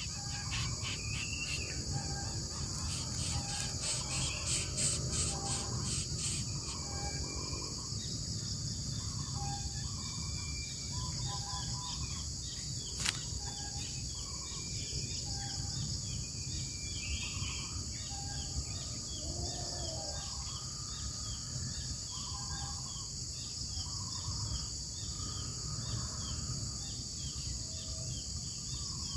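Steady high-pitched insect drone from crickets or cicadas, with a fast pulsing insect burst in the first few seconds and a bird repeating short notes roughly once a second; a single sharp click about 13 seconds in.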